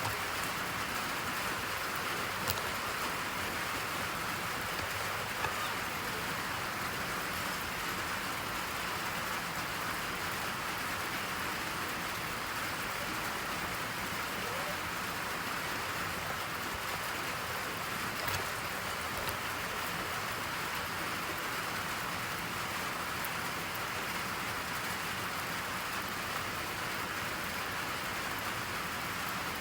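Steady rain falling, an even hiss of rain sounds, with a few faint ticks now and then.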